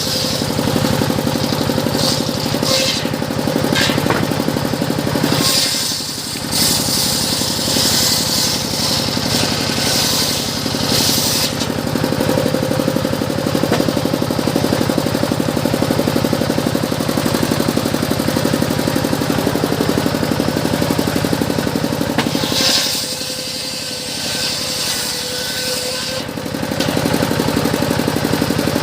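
Circular sawmill running with a steady drone. The blade hisses loudly as it cuts through teak for about the first twelve seconds and again around twenty-two seconds in. The sound drops briefly about six seconds in and again from about twenty-three to twenty-six seconds.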